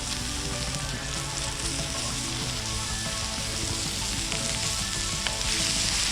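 Mushrooms and onions sizzling steadily as they fry in a pan.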